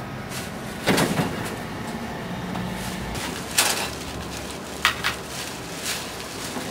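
Several sharp knocks and clatters, a cluster about a second in and a few more over the following seconds, over a steady background noise.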